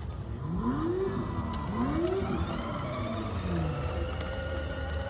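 Children's electric ride-on motorbike moving off: a motor whine that slowly climbs in pitch, with revving sounds that rise and fall twice and then glide down.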